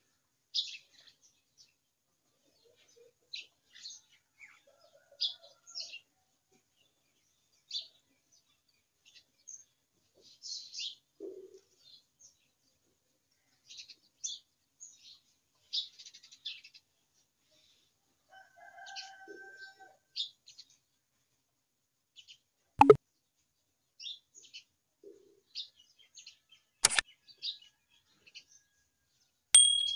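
Small birds chirping in short, scattered calls with silence between them. Two sharp clicks stand out, about 23 and 27 seconds in, and a short ding rings out at the very end.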